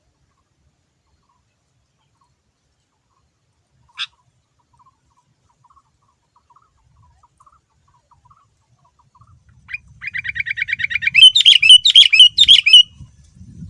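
Sooty-headed bulbul (kutilang) calling: one short note about four seconds in, then a rapid chattering trill from about ten seconds that builds into loud, full song phrases near the end.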